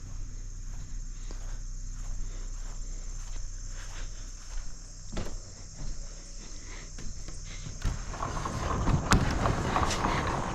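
Footsteps on soggy ground, with scattered short knocks that grow louder and busier near the end, over a steady high chirring of crickets.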